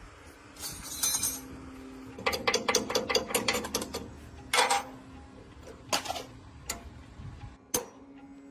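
Hand tools on metal engine parts: a quick run of ratcheting clicks, short scrapes and single metallic clinks, over faint background music.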